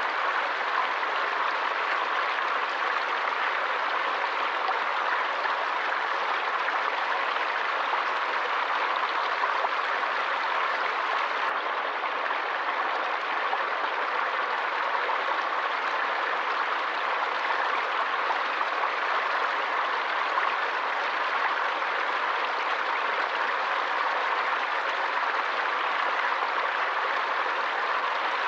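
Forest stream flowing: water rushing steadily with a continuous, even hiss.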